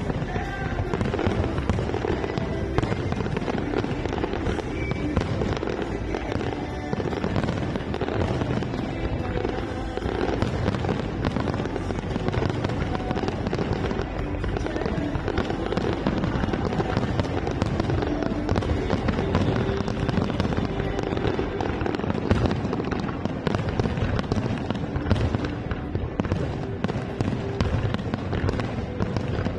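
Aerial fireworks display going off in a dense, unbroken barrage of bangs and crackling shell bursts.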